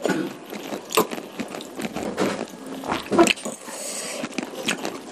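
Close-miked eating sounds: chewing and mouth noises over a bowl of soupy curry noodles and beef meatballs, with irregular wet clicks and smacks, the loudest a little past three seconds in.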